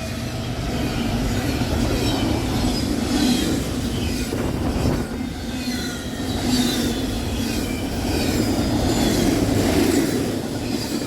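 Freight train cars rolling past at close range, wheels clattering over the rail joints, with a faint squeal of wheels against the rails.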